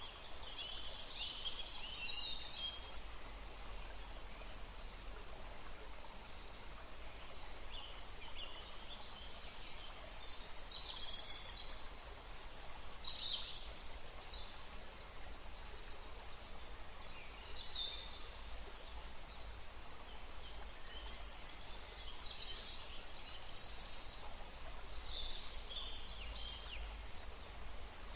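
Woodland ambience: several small songbirds chirping and trilling in short high calls, scattered throughout, over a steady low background noise.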